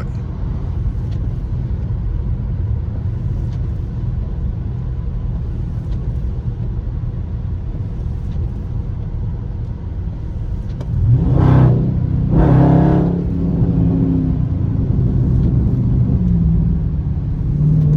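Dodge Charger Scat Pack's 6.4-litre HEMI V8 cruising with a steady low drone and road noise, then two hard stabs of throttle about eleven and twelve and a half seconds in, the engine note rising sharply each time. The rear tyres hold on the wet road and do not spin.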